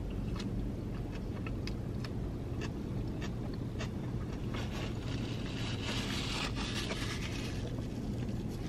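Close-up chewing of a Whopper, with small wet clicks and smacks several times a second, over a steady low hum inside the car. About five seconds in, a louder rustle joins, a paper napkin being handled.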